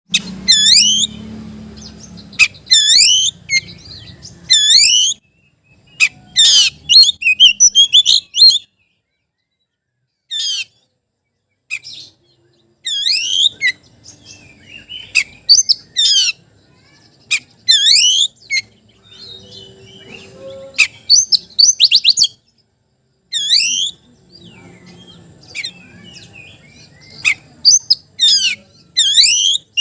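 Oriental magpie-robin (kacer) singing its loud challenge call to a rival male. It comes in short phrases of rapid, sweeping whistled notes, with brief pauses between them.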